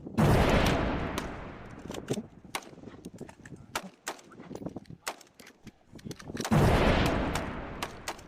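Airsoft replicas firing: scattered sharp shot clicks, with two loud sudden bangs that die away over about a second and a half, about six seconds apart.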